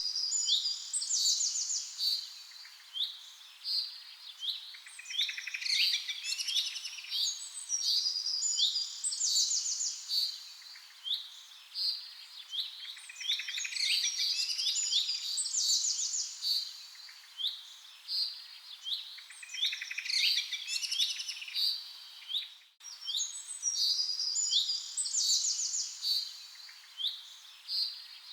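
Several birds chirping and singing together in a dense, overlapping chorus of short chirps and quick trills, high-pitched and thin with no low sound under them. The chorus breaks off for an instant about three-quarters of the way through, then carries on.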